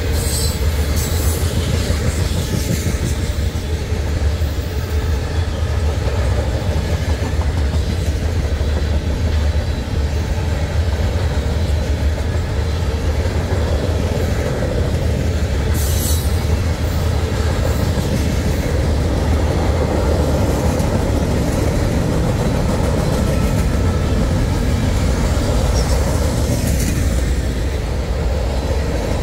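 Freight train of tank cars and covered hoppers rolling past, with a steady heavy rumble and wheel-on-rail noise. A few brief high-pitched squeals come through, about a second in, about halfway through and near the end.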